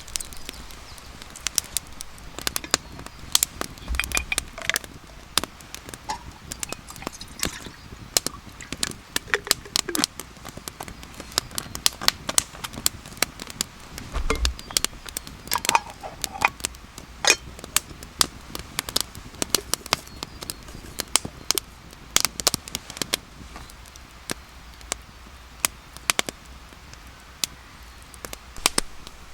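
Wood campfire crackling, with irregular sharp pops and snaps over a low steady background.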